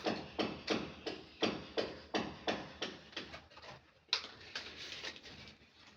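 Repeated cutting strokes from a hand tool, in an even rhythm of about three a second. About four seconds in they turn quicker and lighter.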